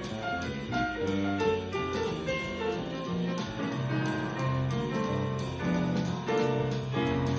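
Jazz band playing an instrumental break, with the piano to the fore over a bass line and no singing.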